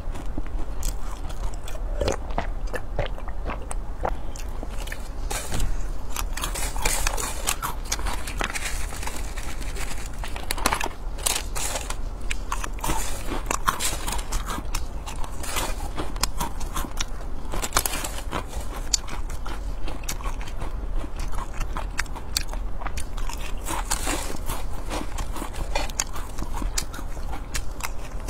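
Close-miked chewing and crunching of fried insect pupae, a dense run of small crisp crunches and clicks at an uneven pace.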